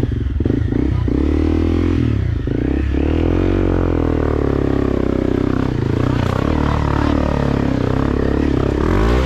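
Motorcycle engine revving hard under load, its pitch rising and falling again and again.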